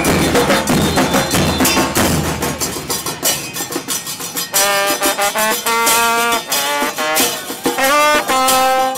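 Murga band music: drums and cymbals beating for roughly the first four seconds, then a brass instrument plays a phrase of short held notes over lighter percussion.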